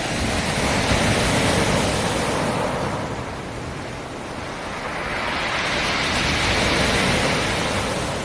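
Black Sea surf: two waves breaking on the shore, each surging up and then ebbing away, the first about a second in and the second about six seconds in.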